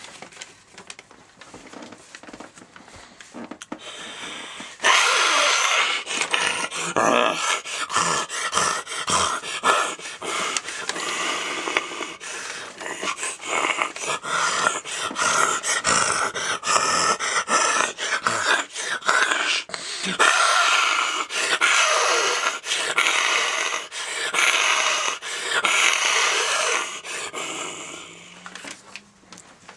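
A man's voice making growling dragon roars, one after another, starting about five seconds in and fading near the end.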